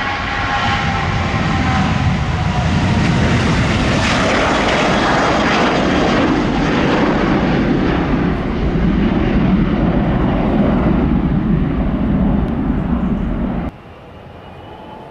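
Boeing 737-800's twin CFM56 jet engines at takeoff power: a falling whine in the first seconds as the airliner passes, then loud, steady jet noise. Near the end it cuts off suddenly to a much quieter, steady engine noise.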